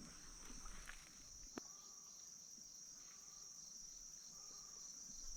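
Faint, steady, high-pitched insect chorus, with a single faint click about one and a half seconds in.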